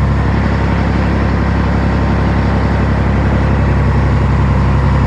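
Scania 113 heavy tow truck's six-cylinder diesel engine running steadily with a deep, even drone.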